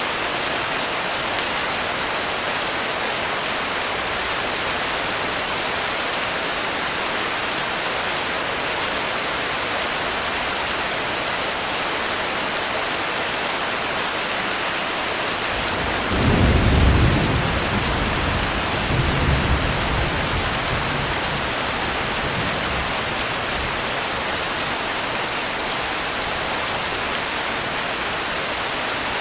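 Steady rain falling, with a roll of thunder a little past halfway: a deep rumble that swells twice over several seconds and dies away.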